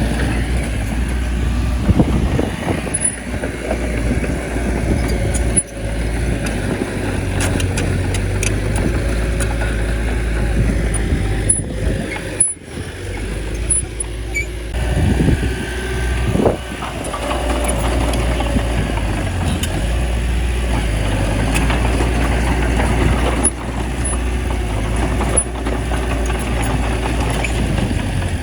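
Small bulldozer's diesel engine running steadily under load, with a few very brief breaks in the sound.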